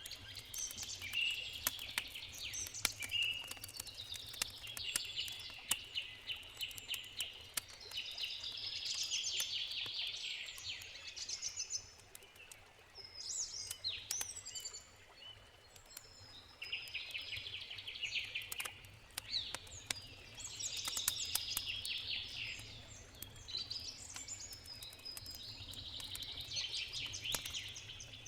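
Songbirds singing in repeated phrases over the sharp crackles and pops of a wood campfire, with a low steady rush of river water underneath.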